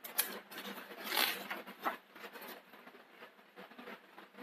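Faint rustling and handling of paper, as of a picture book's page being turned, with the loudest rustle about a second in.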